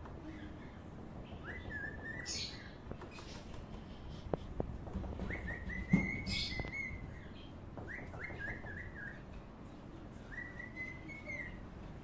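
A bird calling in short whistled phrases, each note rising and then holding or stepping in pitch, in four groups. Two short hissy bursts come with them, and a single thump about halfway through.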